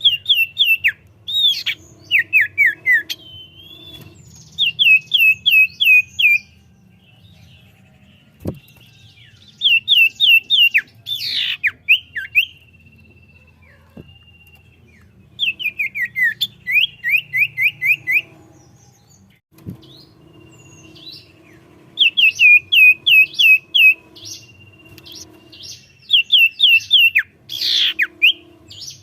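Common iora (cipoh) singing: repeated bursts of five to seven quick down-slurred whistled notes, with a held whistle now and then between the bursts.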